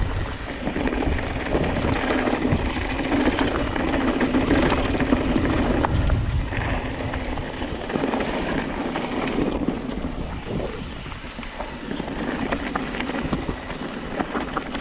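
Mountain bike descending a rough trail: wind buffeting the body-mounted camera mic over tyres rolling on dirt and rock, with frequent clicks and rattles from the bike. Loudest a few seconds in, easing somewhat in the second half.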